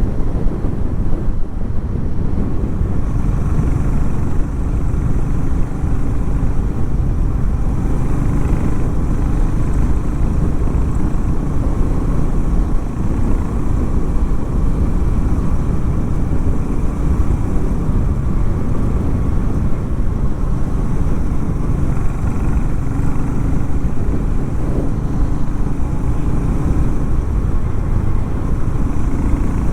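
Harley-Davidson X440 T's 440 cc single-cylinder engine running at a steady, even level without big revs.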